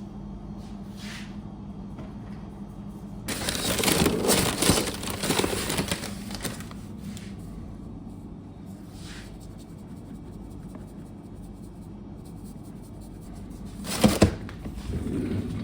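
Crinkling and rustling of material being handled, loudest for about three seconds starting three seconds in, with a short loud burst near the end, over a steady low hum.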